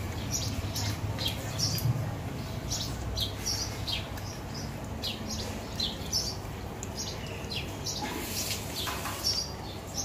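Small birds chirping repeatedly, many short high calls, some falling in pitch, over a low steady rumble.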